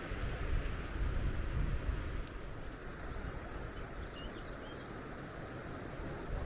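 Wind buffeting the microphone over a steady outdoor rush, heavier in about the first two seconds, with a few faint bird chirps.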